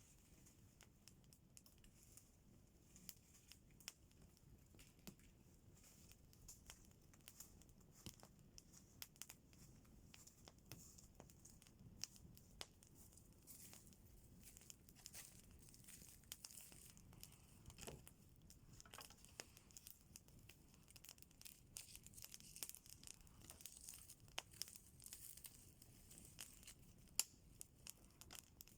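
Campfire crackling faintly, with many small irregular snaps and pops over a light hiss.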